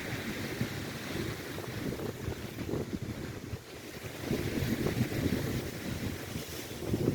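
Strong wind buffeting the microphone in uneven gusts over the steady wash of Lake Erie waves breaking on the shore.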